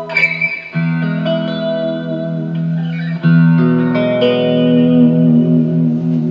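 Freshly refretted 1965 Fender Mustang electric guitar played in sustained chords, changing chord about a second in and again about three seconds in.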